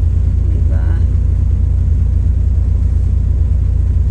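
Loud, steady low rumble, with a brief voice-like sound about a second in.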